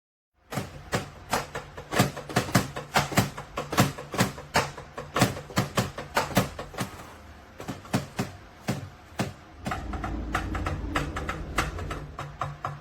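Drumming on a Donner DED-80 electronic drum kit: a fast, irregular run of sharp stick strikes that starts abruptly about half a second in, with a heavier low rumble of strikes near the end.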